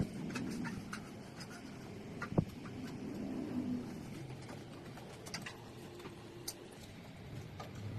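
A motorized bicycle's small engine running, fading down through the middle and picking up again near the end, with scattered clicks and one sharp knock about two and a half seconds in.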